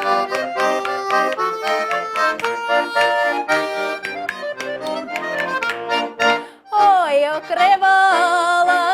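Garmon (Russian button accordion) playing a lively folk-song interlude between sung lines. About seven seconds in, a woman's voice comes in on a long sung note that slides down and is then held with vibrato.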